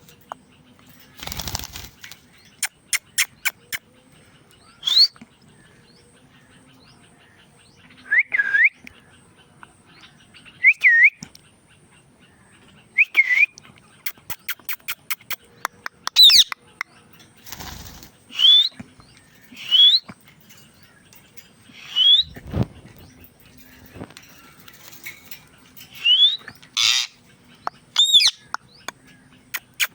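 Indian ringneck parrot calling: a dozen or so short, high squawks and chirps, each sliding upward in pitch, repeated every one to three seconds. Between calls come quick runs of sharp clicks, and a few brief rustling noises.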